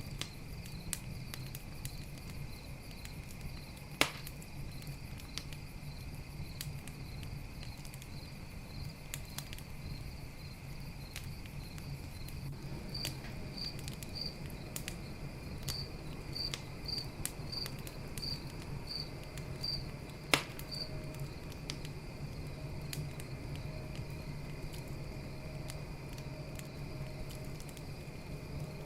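Campfire crackling with frequent small pops and two louder snaps, one a few seconds in and one past the middle, over crickets trilling steadily. For a stretch in the middle one insect chirps in a regular pulse, a little faster than once a second.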